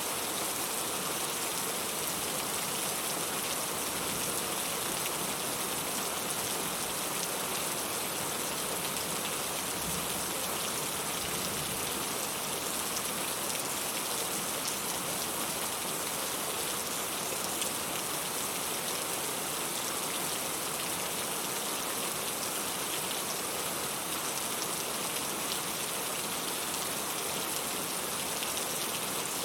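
Steady rain falling, a continuous even hiss of many small drops with no pauses.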